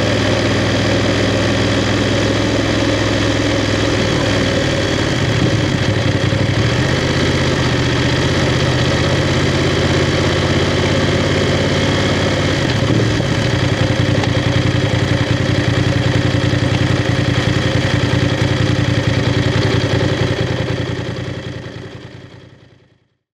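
BMW F 750 GS parallel-twin engine idling steadily, fading out near the end.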